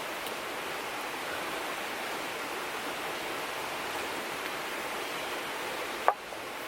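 River water flowing steadily, with a single sharp click about six seconds in.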